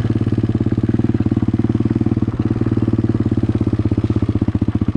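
A 2008 dirt bike's engine running at a steady low pace, a rapid even train of firing pulses with no big revs, as the bike is ridden slowly along a trail. The exhaust is short of packing, which the rider says makes the bike really loud.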